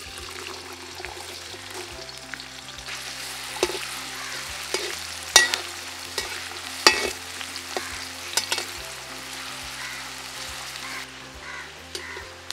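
Diced onions sizzling in hot oil in a large aluminium wok as they are stirred, with a few sharp knocks against the metal pan, the loudest about five and seven seconds in.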